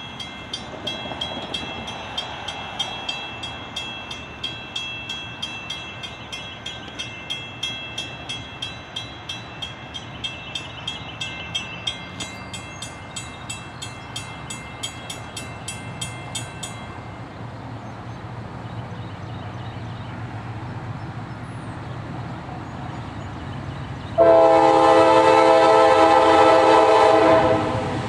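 A railroad grade-crossing bell rings at about two to three strikes a second and stops about two-thirds of the way through. A diesel locomotive's rumble then builds. Near the end a locomotive air horn sounds one loud chord blast of about three seconds.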